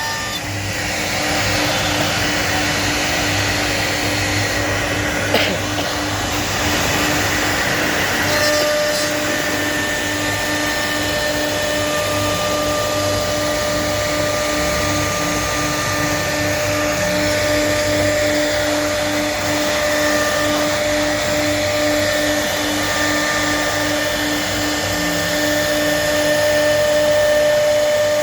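CNC machine spindle running and milling with a 12 mm cutter: a continuous cutting noise under steady whining tones, one of which sets in about eight seconds in.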